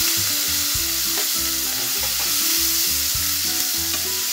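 Chopped onion and tomato sizzling in hot oil in a steel kadhai, a steady frying hiss. A steel ladle stirs the vegetables, with a few light clicks against the pan.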